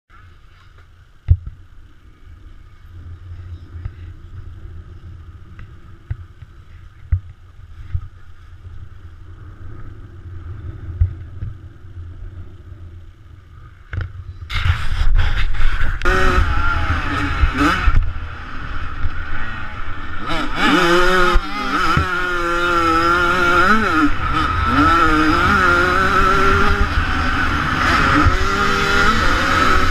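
1998 Suzuki RM125 two-stroke motocross engine. For the first half there is only a low rumble with scattered knocks. About halfway in it turns loud, and the engine revs up and down repeatedly over a heavy low rumble.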